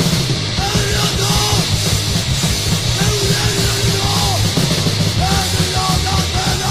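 Swedish hardcore punk recording from a 1985 7-inch: a loud, dense band sound with shouted vocals.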